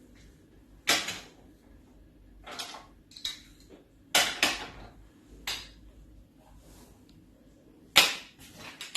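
Wooden toy train set pieces clacking and knocking together as they are handled and pushed, with separate sharp knocks every second or two. The loudest knocks come about four and eight seconds in.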